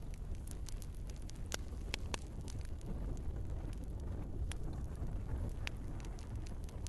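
Wood fire in a fireplace crackling: irregular sharp pops and snaps of burning logs over a low steady rumble of the flames, with a few louder pops about one and a half to two seconds in.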